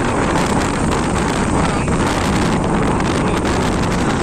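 Steady wind rushing over the microphone on a moving motorcycle, with the bike's engine and road noise mixed underneath.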